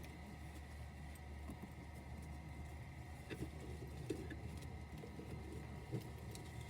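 Steady low hum with scattered soft clicks and small taps, like small objects being handled.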